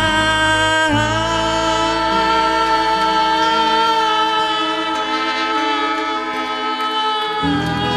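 Live band music with singing: voices glide into a long held note over sustained chords. The bass drops out briefly near the end, then comes back in.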